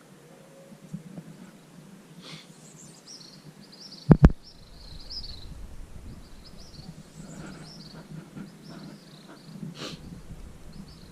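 Birds chirping in short, high calls, over a steady low hum. One sharp, loud thump comes about four seconds in.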